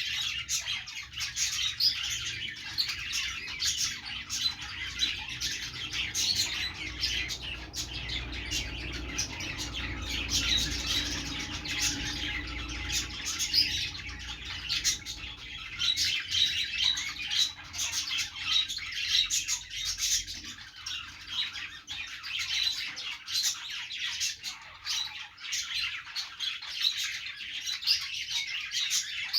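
Several budgerigars chirping and chattering together, a dense, unbroken stream of short, high, overlapping chirps.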